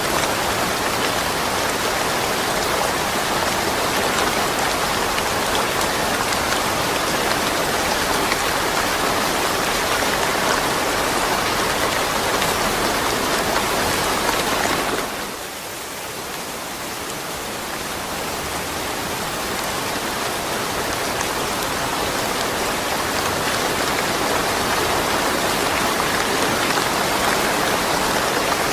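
Steady rain falling, a dense even hiss of drops; about halfway through it suddenly drops away in loudness, then builds back up over several seconds.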